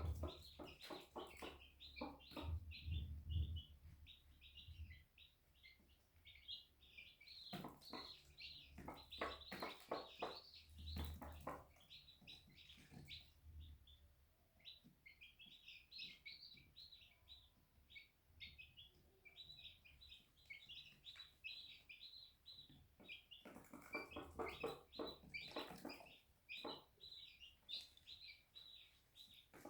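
Day-old chicks peeping steadily in short, high chirps, with scattered sharp taps that come in clusters a few times.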